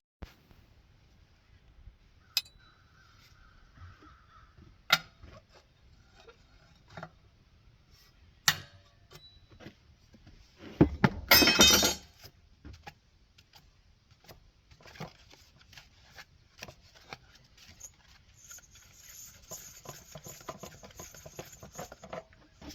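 Metal tools and engine parts clinking and knocking as they are handled, in scattered single clicks, with a louder rattling clatter about eleven seconds in.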